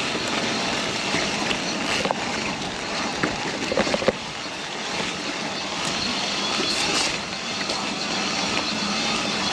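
Mountain bike riding down a rough, muddy trail: a steady rushing noise of tyres and wind, with a few sharp knocks and rattles from the bike.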